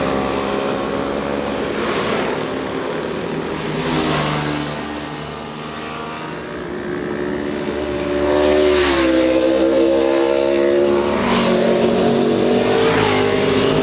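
Motorcycle engines revving as bikes pass, pitch rising and falling; louder from about eight seconds in.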